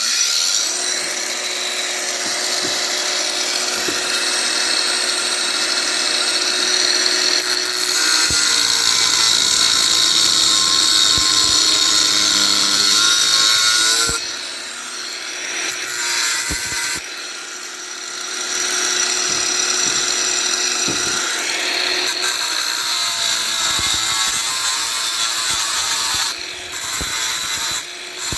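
Electric power tool running under load, cutting the excess metal off a freshly sand-cast bronze anvil; it eases off briefly a couple of times about halfway through and once near the end.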